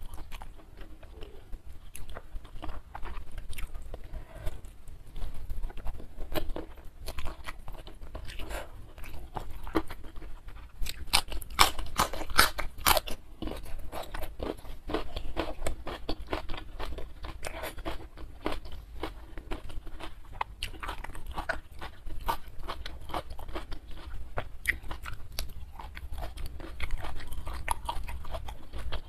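Close-miked chewing and crunching of a mouthful of rice with stir-fried prawns, leunca berries and salted fish, eaten by hand, with many small wet clicks and crackles. The crunching is busiest about eleven to thirteen seconds in.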